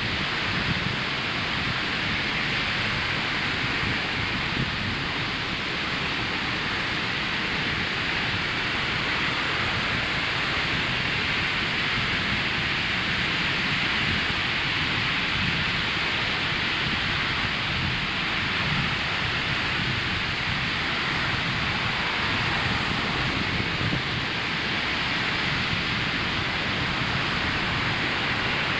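Ocean surf breaking and washing on a sandy beach: a steady, even roar of water with a low rumble underneath and no distinct single wave crashes.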